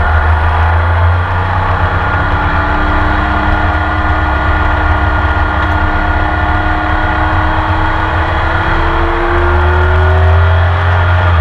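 Porsche 911 RSR's flat-six racing engine heard onboard under full load, its pitch climbing slowly through a long pull in one gear, then dropping near the end at an upshift.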